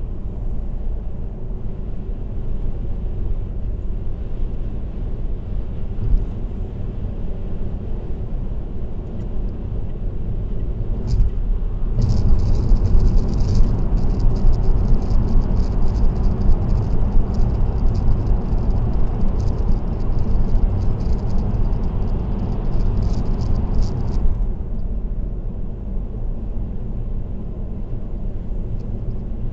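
Car's tyre and road noise at expressway speed, a steady low rumble. Midway it grows louder for about twelve seconds, with a fine rattle over it, then settles back.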